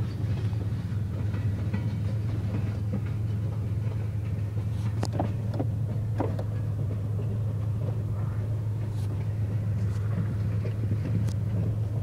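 Steady low rumble of a moving vehicle, with a few short clicks or squeaks about halfway through.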